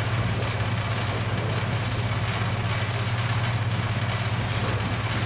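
Steady low hum and running noise inside a suburban electric train carriage, unchanging throughout.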